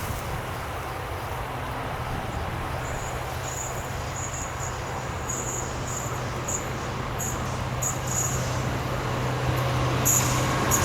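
Train approaching on the line, its low running hum and rumble growing steadily louder, with short high chirps over it.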